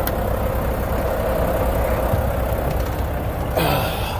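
Volvo semi truck's D13 diesel engine idling steadily. Near the end there is a short, loud burst of hiss and clatter with a falling sweep.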